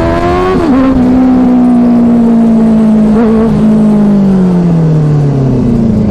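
Benelli 600i's inline-four through an aftermarket ixill exhaust, under way and rising in pitch. About half a second in the pitch drops abruptly, then the engine holds a steady note that slowly sinks as the bike rolls on.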